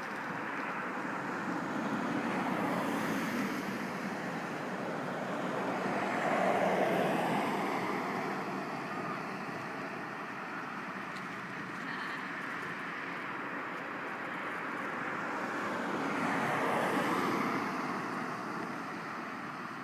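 Outdoor traffic noise: vehicles passing on a road, swelling and fading about three times.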